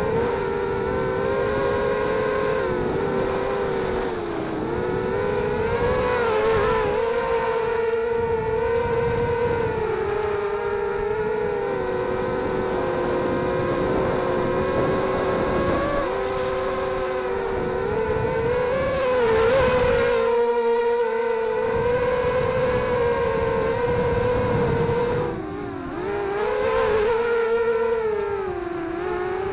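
ZMR 250 FPV racing quadcopter's brushless motors and propellers whining in flight, the pitch wavering up and down with the throttle. About 25 seconds in, the sound briefly drops with a falling pitch, then climbs back. Wind rumbles on the microphone underneath.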